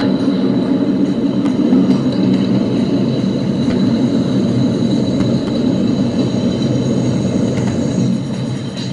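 Fighter jet's engine running with a steady low roar and a thin, constant high whine.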